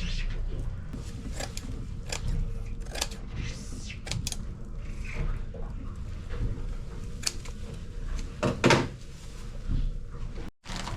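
Scattered clicks and knocks of objects being handled, over a low steady hum. The two loudest knocks come near the end.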